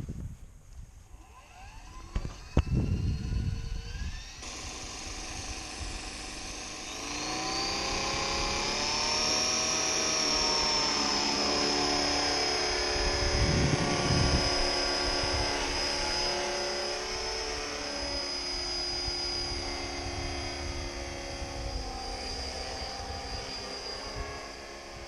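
Electric 450-size RC helicopter with a Bell 206 scale body spooling up: the motor and gear whine rises in pitch over several seconds, then settles into a steady high whine with rotor noise. A few low thumps are also heard.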